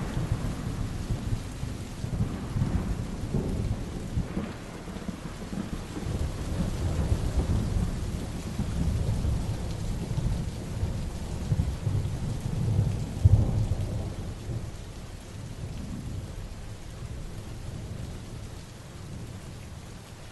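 Heavy rain falling steadily while thunder rolls low, swelling about two-thirds of the way through and dying away near the end.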